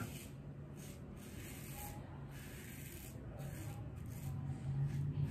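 A Fatip safety razor with a Gillette Stainless blade scraping through lathered stubble in short, repeated strokes, a faint rasp. This is the first pass of a wet shave.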